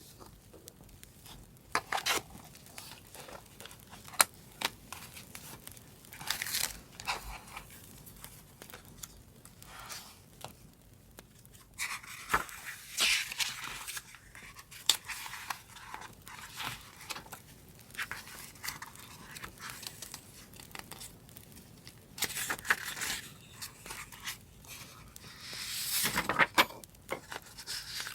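Paper being handled for journal decorating: intermittent tearing, crinkling and rustling, with sharp little ticks in between.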